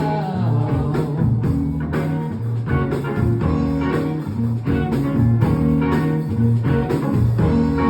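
A live rock band playing an instrumental passage: guitar-led groove over bass and drums, with no singing.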